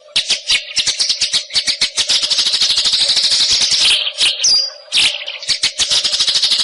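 White-rumped shama (forest murai batu) singing: a fast, rattling chatter of clipped notes, broken about four seconds in by a brief pause with a short falling whistle, then the chatter resumes. A steady low hum runs underneath.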